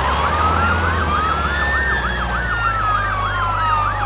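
Emergency vehicle sirens, two sounding together: a fast yelp sweeping up and down about three times a second over a slow wail that rises and then falls, with a low engine rumble beneath.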